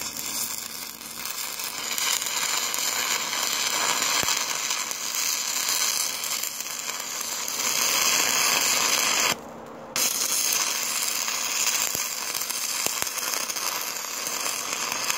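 Stick welding arc from a Thermal Arc 400 GMS welder: a steady frying crackle as the electrode burns. About nine seconds in the arc goes out for under a second, then restrikes and runs until it is broken off suddenly at the end.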